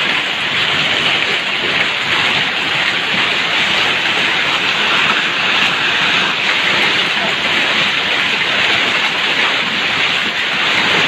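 Heavy rain pouring down in a thunderstorm downpour: a loud, steady rushing hiss.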